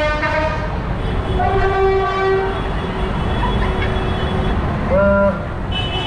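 Tractor engines running in a procession with horns sounding over them: a held toot in the first seconds, a short blast about five seconds in, and another higher-pitched horn starting near the end.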